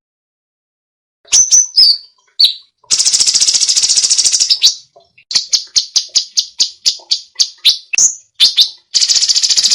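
Songbird song, high and sharp. After about a second of silence come a few quick gliding whistled notes, then a fast, dense trill lasting about two seconds, then a run of quick separate notes at about five a second, and another fast trill near the end.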